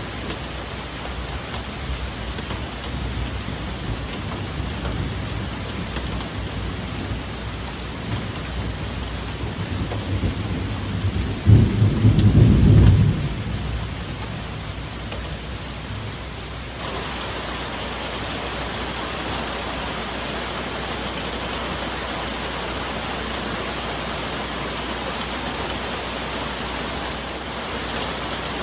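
Steady rain falling on forest foliage, with thunder rumbling that builds to a loud crash about halfway through and then dies away. A few seconds later the rain hiss suddenly grows louder and stays heavier.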